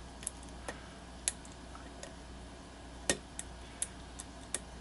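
A Peterson Gem hook pick ticking against the pins of a 5-pin challenge lock under tension: about eight light, irregular metallic clicks, the loudest about three seconds in. The picker is setting pins while working the lock out of a deep false set.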